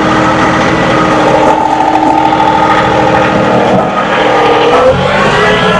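John Deere 2038R compact tractor's diesel engine running under load, its pitch shifting about five seconds in.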